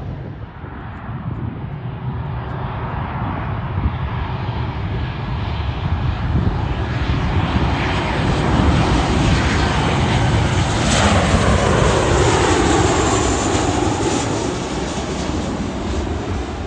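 Jet airliner passing close by: its engine noise builds to the loudest point about eleven seconds in, where a whine falls in pitch as it goes past, then eases off.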